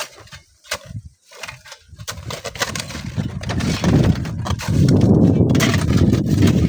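Sand and stones falling down a sand cliff: scattered knocks of tumbling clods, then a low rumbling rush of sliding sand that builds and turns loud and steady about five seconds in.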